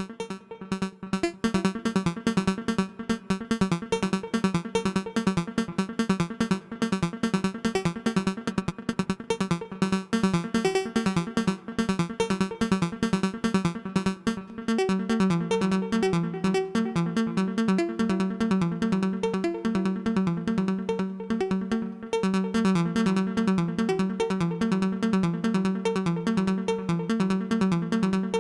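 Modular synthesizer patch: a Braids-clone macro oscillator playing a fast stream of short, enveloped plucked notes around a steady low pitch, with overtones and echoes from a Make Noise Mimeophon delay. About halfway through, the notes become steadier and slightly louder.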